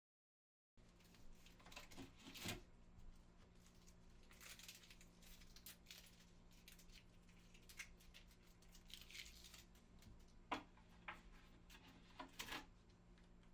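Near silence: faint room tone with a steady low hum and scattered small rustles and clicks, after a moment of dead silence at the start.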